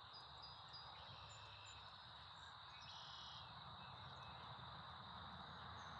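Faint outdoor ambience: a steady high insect drone, with a few faint bird chirps early on and a short bird call about three seconds in, over a low background rumble.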